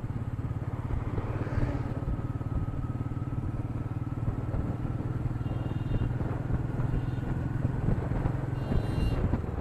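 Royal Enfield Meteor 350's single-cylinder engine running at a steady cruise, with its low, even thumping exhaust beat, picked up by an action camera's built-in microphone. Two brief high-pitched tones sound near the middle and near the end.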